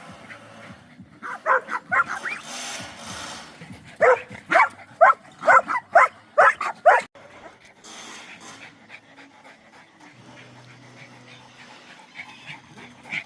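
Dogs barking in short, quick barks: a few about a second and a half in, then a louder run of about eight barks between four and seven seconds in.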